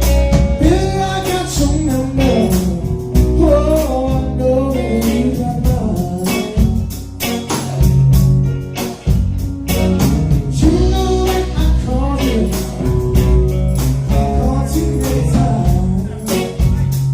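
A singer performing with a band: a sung melody over guitar and low bass notes, with a steady beat.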